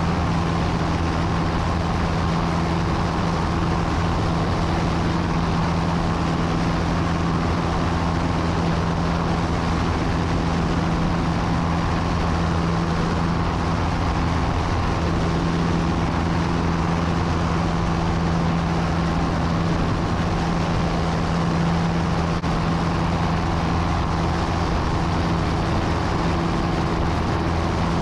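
Steady drone of a small airplane's engine and propeller heard inside the cabin in flight, a constant low hum with a hiss of airflow and no change in pitch.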